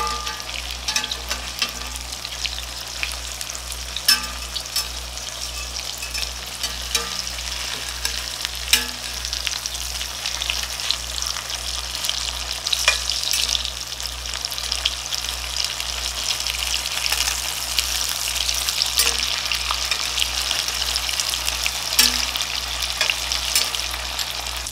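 Firm tofu slices frying in hot oil in an enamelled pan: a steady sizzle and crackle, with occasional sharp clicks as a spatula and metal fork touch the tofu and pan.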